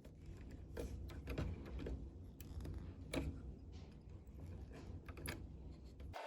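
Scattered small clicks and taps of hand tools working on the wiring of a tube tester's 7-pin socket, over a steady low hum.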